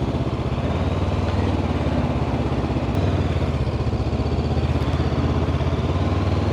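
Honda CB500X parallel-twin motorcycle engine running steadily while riding, with a constant rush of wind and road noise over it; the engine note steps slightly about three seconds in.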